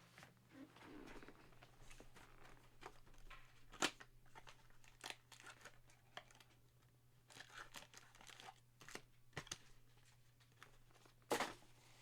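Trading cards and their packaging being handled and sorted into stacks: soft rustling and crinkling with scattered sharp taps and clicks, the loudest about four seconds in and again near the end.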